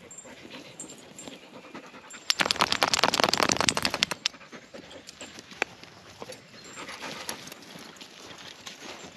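Belgian Malinois dog panting, with a loud burst of rapid clicking and rustling that starts about two seconds in and lasts about two seconds.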